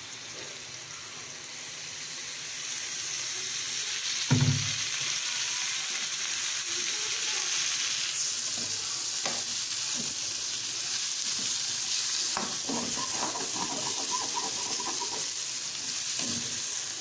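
Chopped bitter gourd sizzling in hot oil in an aluminium pan, the sizzle building over the first few seconds after the oil goes in. A slotted metal spoon stirs and scrapes the pieces against the pan, with one loud knock about four seconds in.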